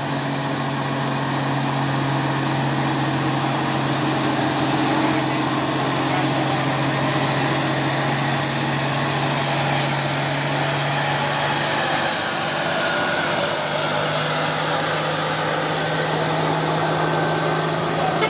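Heavy diesel truck engine running steadily under load, its pitch dipping and then settling slightly higher about twelve seconds in.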